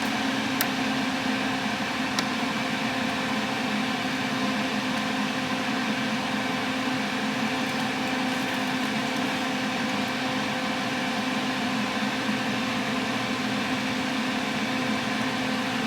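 Steady mechanical hum with an even fan-like rushing noise and a low steady drone.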